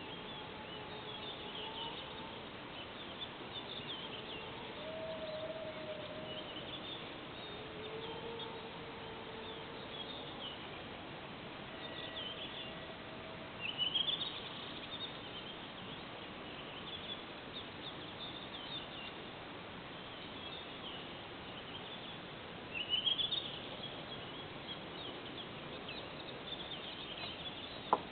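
Birds singing with repeated high chirps and two loud rising trills, over faint long drawn-out howls that the uploader wonders are wolves. A sharp click near the end.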